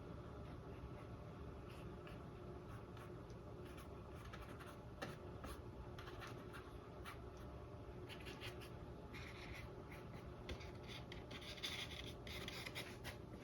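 Paintbrush stroking and dabbing acrylic paint onto a stretched canvas: faint, short scratchy strokes, coming more often and a little louder near the end.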